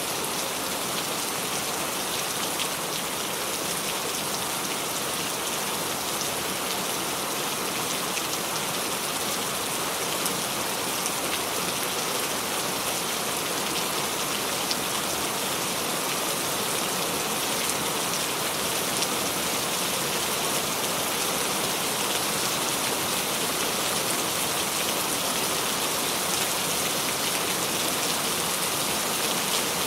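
Steady rain falling on a surface, an even hiss with fine scattered drop patter and no thunder.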